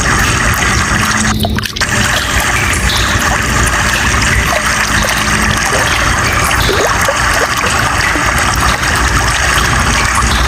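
Water running steadily with a constant rush, briefly dropping out for a moment about a second and a half in.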